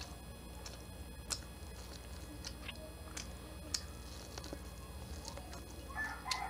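Close-up chewing and biting of corn on the cob, with scattered crisp clicks as the kernels are bitten off and chewed. A brief burst of high calls sounds in the background near the end.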